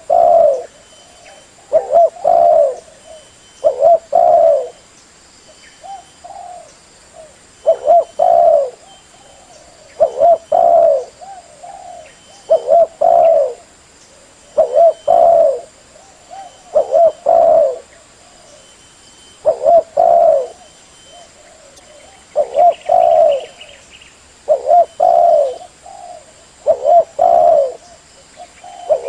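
Spotted dove (tekukur) cooing: a multi-note coo phrase repeated about every two seconds, with softer single coos in between.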